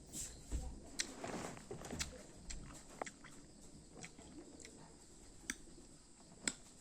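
Close mouth sounds of someone eating lemon: faint wet clicks and smacks at irregular intervals, with a soft stretch of chewing about a second in.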